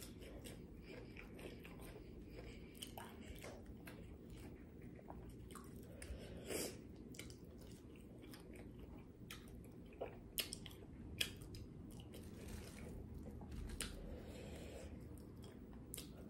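Close-up chewing of boneless buffalo wings and seasoned fries: soft, wet mouth sounds with scattered sharp clicks. A few louder clicks come about six seconds in and again around ten to eleven seconds.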